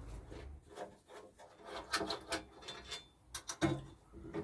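A plate being worked loose and lifted off a wooden table top: irregular scraping and rubbing against the wood, with a few sharp knocks about three and a half seconds in.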